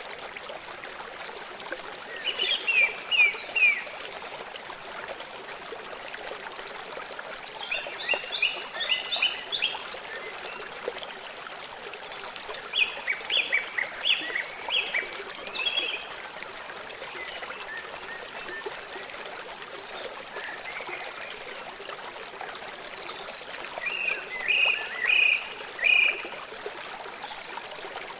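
Steady rushing of a small stream, with a bird singing short phrases of several quick high notes four times, every five to ten seconds.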